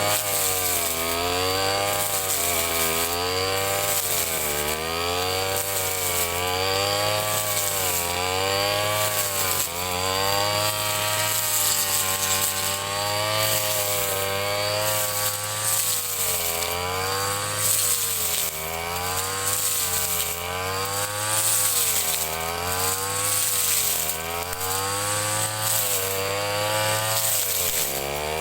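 Ryu 30.5 cc two-stroke brush cutter engine running hard while cutting grass. Its note wavers up and down every second or two.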